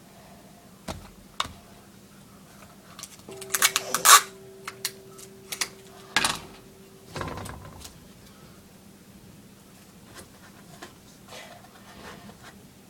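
Scissors snipping and a paper folder being handled: scattered sharp snips and crackles, loudest in a quick cluster about four seconds in and again about six seconds in.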